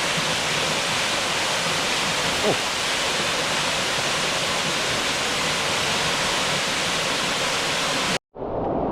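Steady rush of falling water from a canyon waterfall, cutting off abruptly near the end.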